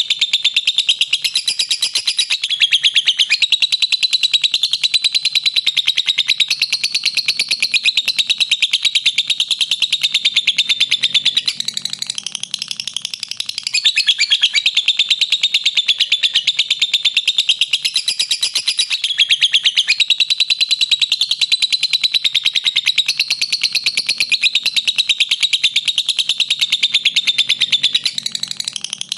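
Lovebird giving its long, unbroken 'ngekek' call: a fast, shrill chattering stream of notes, easing briefly about twelve seconds in.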